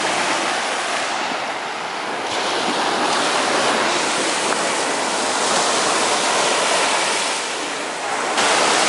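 Ocean surf washing onto a sandy beach, a steady hiss of water that swells and eases as waves break.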